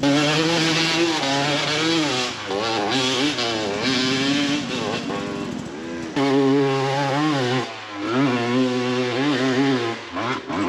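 Dirt bike engine revving hard on a steep hill climb, the revs rising and falling repeatedly as the throttle is worked, with short drops in the revs about six and eight seconds in.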